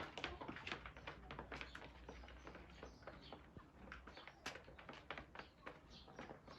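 Chickens pecking at chopped greens: many quick, irregular taps and clicks, with faint bird calls among them.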